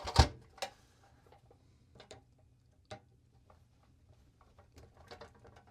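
A sharp knock just after the start, then scattered light clicks and taps as small hand tools work the hard old rubber tires and white walls off a pressed-steel toy truck's wheels.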